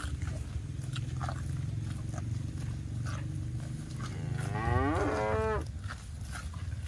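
Cattle mooing: a low, drawn-out moo, then a stronger moo about four and a half seconds in that rises and falls in pitch, with scattered soft clicks.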